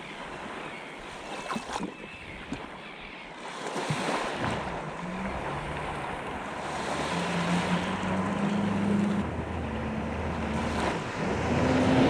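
Yamaha WaveRunner VX Deluxe jet ski running over the water, with splashing and wind noise on the microphone. From about four seconds in, the engine note climbs in steps and grows louder as the ski speeds up.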